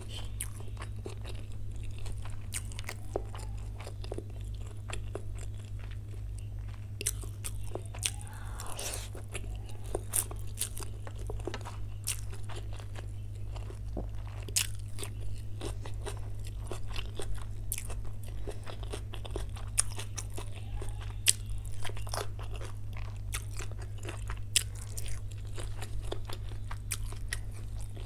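Close-miked eating sounds from someone eating chow mein and chilli chicken: chewing and biting, with frequent sharp crunches and wet mouth clicks at irregular intervals, over a steady low hum.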